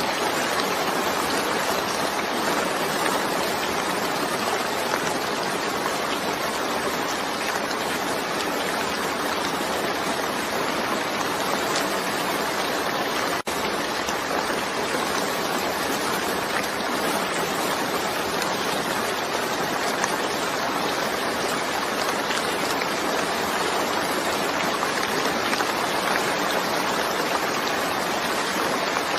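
Steady, dense rain falling, an even hiss with no single drops or thunder standing out, broken by a momentary dropout about halfway through.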